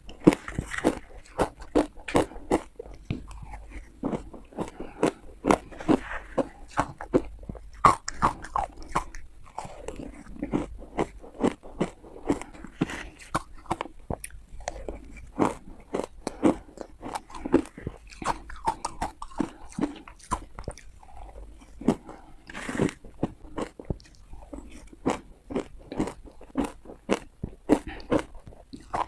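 Teeth biting through hard ice: a steady run of sharp crunches and cracks, with chewing between the bites.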